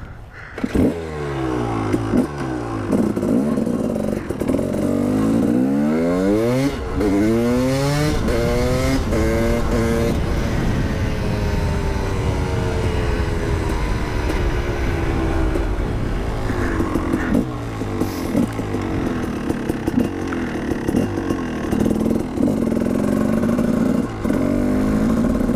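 Husqvarna motorcycle engine pulling away and accelerating. Its pitch climbs in several quick sweeps through the gears in the first seven seconds or so, then it runs at a steadier speed with milder rises and falls.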